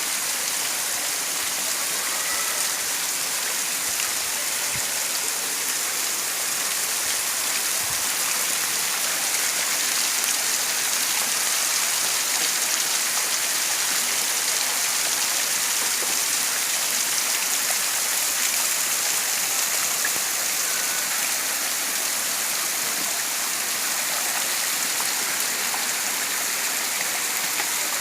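Waterfall: a steady, hissing rush of falling and splashing water.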